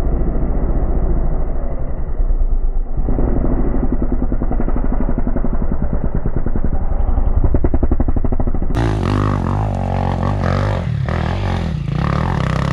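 Enduro dirt bike engine running hard off-road, its rapid firing pulses rising and falling as the throttle is worked.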